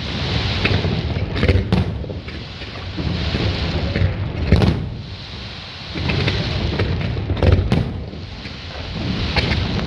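Aerial fireworks bursting: a sharp bang every few seconds, with crackling and a rolling, echoing rumble between the bursts.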